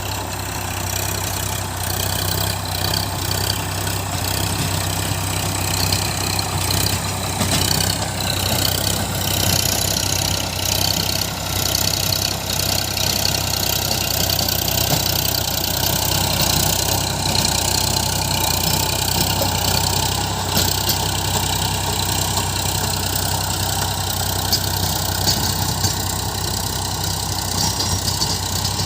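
Tractor engine running steadily, a low hum with a constant rushing noise over it.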